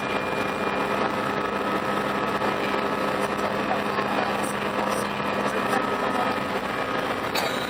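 Steady drone inside the passenger cabin of an Airbus A319 airliner: jet engines and airflow making an even roar, with a steady low hum underneath.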